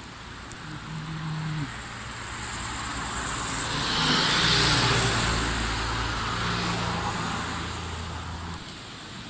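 A passing vehicle: engine hum and noise swelling to their loudest about halfway through, then fading away.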